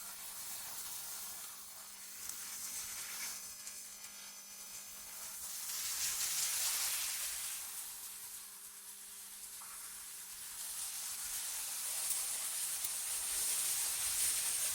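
AI-generated wind ambience: a high, airy hiss that swells into gusts and eases off again, with a faint steady low hum beneath.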